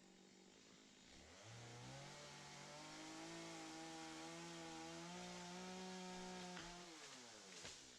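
Faint small engine revving up about a second in and running at a steady high speed, then dropping off near the end, followed by a sharp click.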